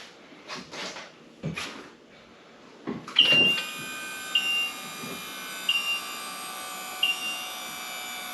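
A few knocks and shuffles, then about three seconds in the Polaris Slingshot's engine starts with a loud burst through its new Thermal R&D cat-back front-exit exhaust and settles into a steady idle. A short high beep repeats about every second and a quarter over the idle.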